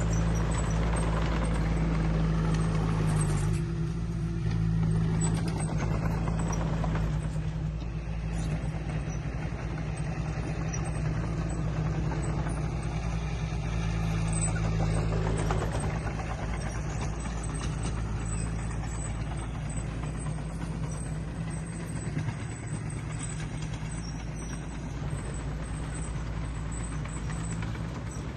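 Diesel engine of heavy earthmoving machinery running steadily with a low hum, a little louder over the first several seconds.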